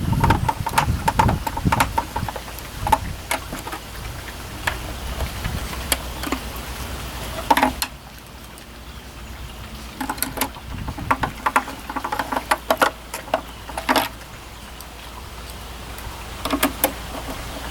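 Scattered small clicks, taps and rattles of a screwdriver and screws being worked into the plastic case of a Macintosh Plus as it is reassembled, with a low steady hum underneath.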